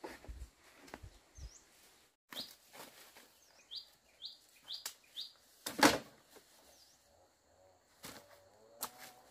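Small birds chirping, including a run of five quick falling notes, among scattered knocks and rustles, with one loud sharp knock about six seconds in.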